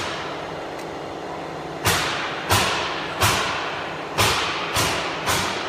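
A series of sharp knocks, each with a short ringing tail. They start about two seconds in after a pause, about six strikes at uneven intervals of half a second to a second, the last one lighter.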